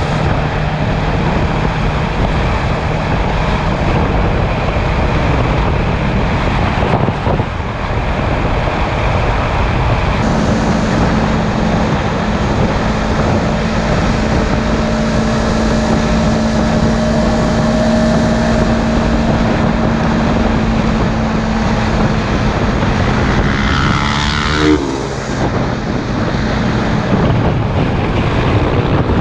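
Motorcycle engine running at a steady cruising speed under heavy wind rush on the camera microphone. There is a brief dip about seven seconds in. The engine note steps up to a higher steady pitch about ten seconds in and drops back down near the end.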